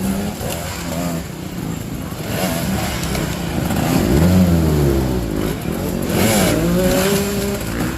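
Dirt bike engines revving up and down, the pitch rising and falling as the riders work the throttle, loudest about halfway through.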